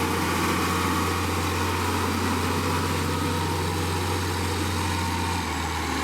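Heavy road-construction machine's engine running steadily: a continuous low drone with a slight change in its low note near the end.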